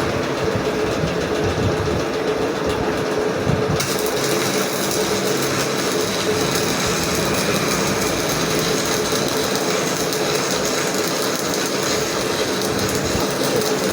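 Electric arc welding: a continuous crackling hiss with a steady tone underneath; the high hiss gets stronger about four seconds in.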